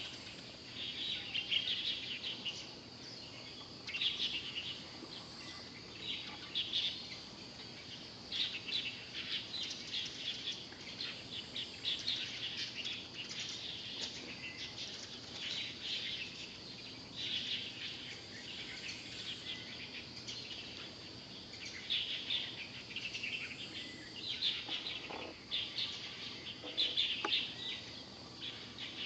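Birds chirping and calling in repeated short bursts, over a steady high-pitched background hum.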